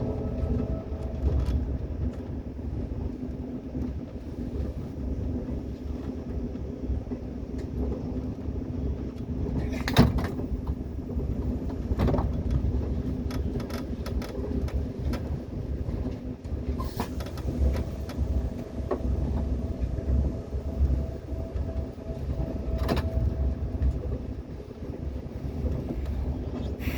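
Train in motion heard from inside: a steady low rumble with a droning hum, and scattered clicks and knocks. There is a sharp, loud knock about ten seconds in.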